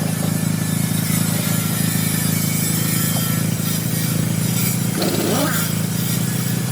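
Restored diesel truck engine running steadily.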